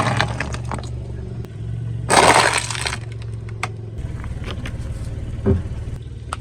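A car's tyre rolling over and crushing a brittle object, with a burst of crunching and cracking about two seconds in, over the low hum of the car's engine. A few small clicks come before the crunch, and a single dull knock follows near the end.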